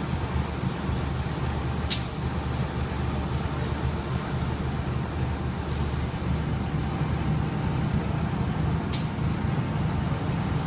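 Diesel train engine running steadily with a low hum, broken four times by short, sharp hisses of released air, the one in the middle lasting about half a second.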